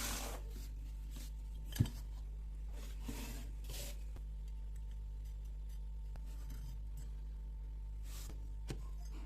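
Small workbench handling sounds: a few short scraping strokes, a sharp tap a little under two seconds in and a lighter click near the end, over a steady low hum.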